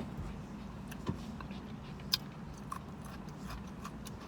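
A person eating close to the microphone: quiet chewing with scattered small wet mouth clicks and ticks over a low steady background hum.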